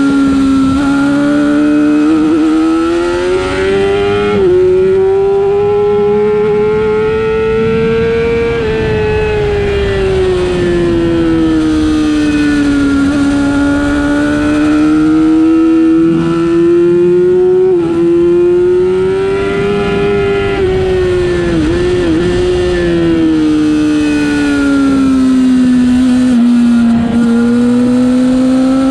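Superbike engine at race pace, its note climbing and falling as the bike accelerates and slows through the corners, with a few brief breaks at gear changes.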